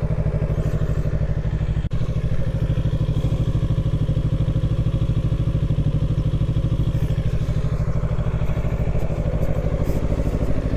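Kawasaki Ninja 650's parallel-twin engine idling steadily with an even, unchanging firing pulse.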